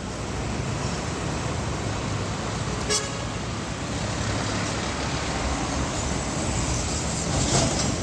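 Heavy road traffic with diesel trucks running past, a steady low engine rumble. A short sharp sound comes about three seconds in, and the traffic grows louder near the end.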